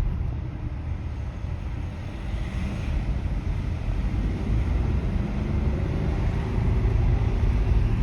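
Road traffic: engine and tyre noise of passing vehicles, with one engine note rising and falling in the second half and getting a little louder toward the end.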